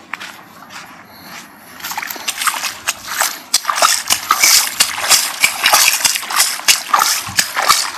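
Shallow seawater splashing: only light sloshing at first, then from about two seconds in a busy, uneven run of repeated splashes that grows louder.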